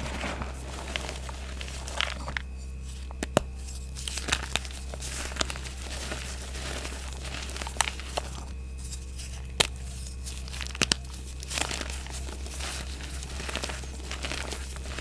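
Reformed gym chalk being crushed: an irregular run of crunching and crumbling with sharp cracks now and then, over a steady low hum.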